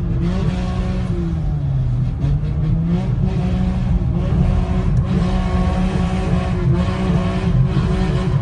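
A car engine held at high revs while a car drifts on tarmac, its pitch dipping about two seconds in and climbing back up.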